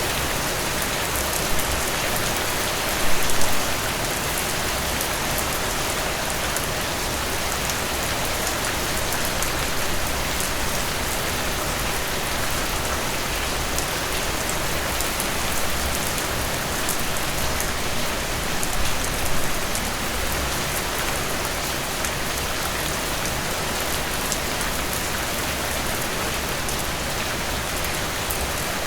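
Steady heavy rain falling and pattering on a surface, with a few brief louder swells of downpour.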